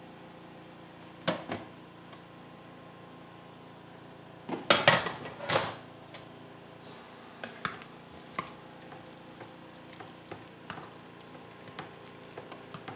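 A serving utensil clinking and scraping against a cooking pot while the cooked pasta is stirred and dished out. The heaviest run of scrapes and knocks comes near the middle, with lighter taps after it, over a steady faint hum.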